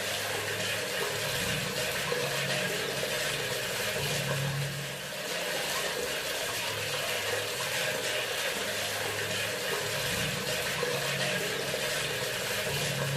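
Bathroom sink faucet running in a steady stream of water, with a low hum that comes and goes underneath.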